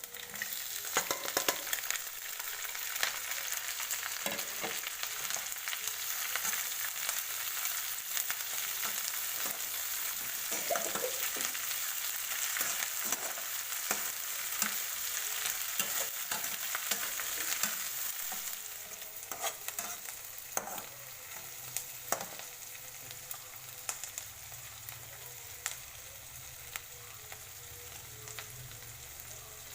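Food frying in hot oil in a wok, a steady sizzle with scattered clicks and knocks of a utensil stirring it. The sizzle drops off somewhat about eighteen seconds in.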